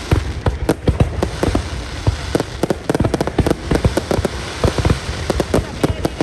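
Aerial fireworks exploding in a rapid, irregular barrage: many booming bursts a second over continuous crackling.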